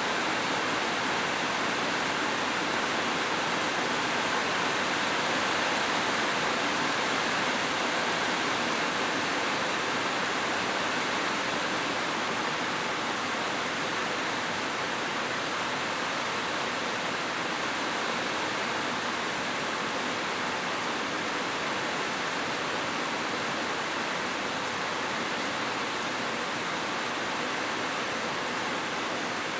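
Heavy rain falling steadily, a continuous even hiss with no separate drops or gusts standing out.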